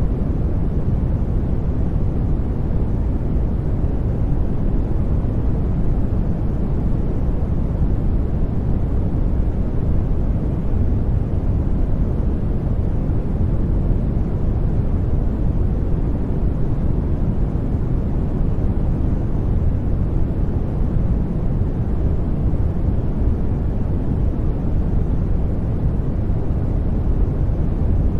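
Sleep-aid noise track: a steady, unbroken hiss weighted heavily towards the low end, a deep even rumble with little treble, unchanging throughout.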